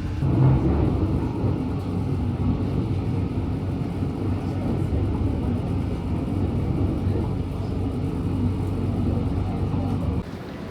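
Steady low rumble of a moving vehicle that cuts off suddenly near the end.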